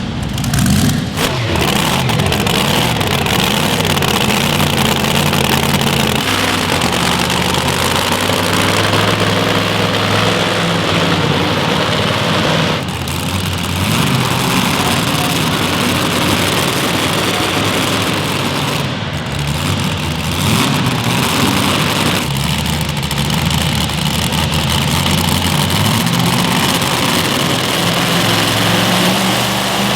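A pulling vehicle's engine running loud and steady, its pitch shifting up and down in steps several times, with a dense rushing noise over it.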